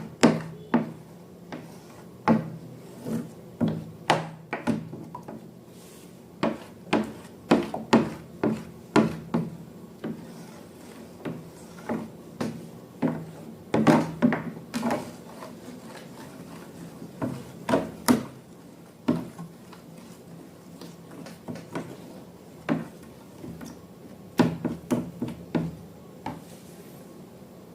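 Irregular sharp taps and knocks, some in quick clusters, with quieter rubbing between: containers and utensils handled while making slime.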